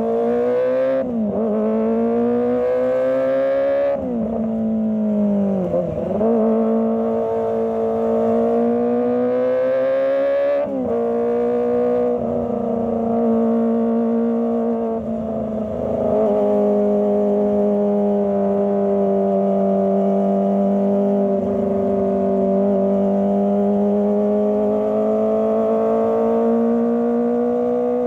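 Kawasaki ZX25R's 250 cc inline-four engine revving up and down: the pitch climbs and falls back sharply about three times in the first eleven seconds, then the revs hold fairly steady.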